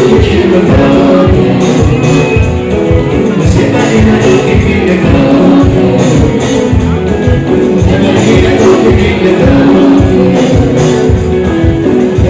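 Loud live ohangla band music with a steady driving beat, guitar and a singing voice.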